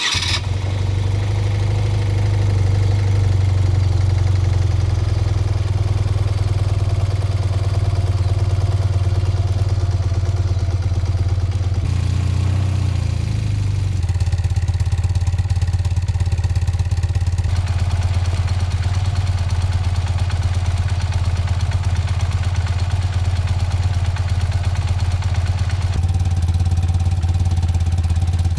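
Motorcycle engine running steadily while riding, a loud, even drone. Its pitch dips briefly about halfway through, and the low tone changes again near the end.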